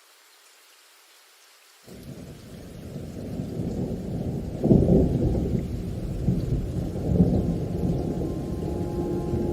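Thunder rumbling: a deep roll sets in suddenly about two seconds in, swells to its loudest crack about five seconds in and keeps rolling.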